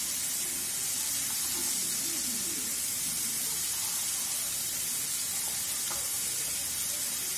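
Chicken pieces sizzling steadily as they fry in hot oil in an iron kadai.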